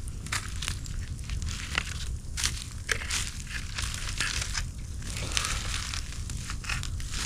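Irregular crackling and crunching: many short, uneven clicks, like dry material being crushed or handled, over a low rumble.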